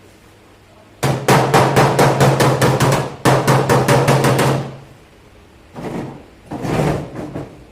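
Rapid, evenly spaced hammer blows on car body sheet metal, about six a second in two runs, as dents are beaten out, with a low hum under the blows; two softer knocks follow near the end.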